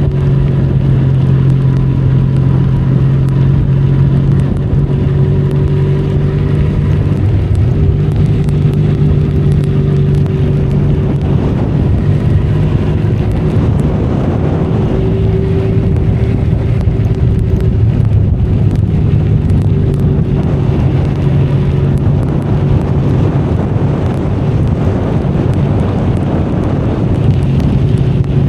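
Benelli Leoncino 500 Trail's parallel-twin engine running at a steady cruising pitch on the move, under a steady rush of wind and road noise.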